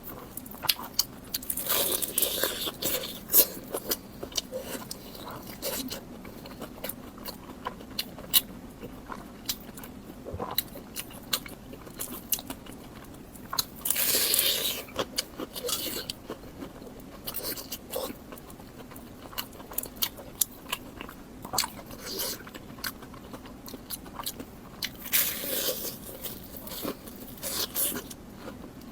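Close-miked eating: bites and chewing with crunching and wet mouth clicks, in three louder bouts of biting spread through the stretch.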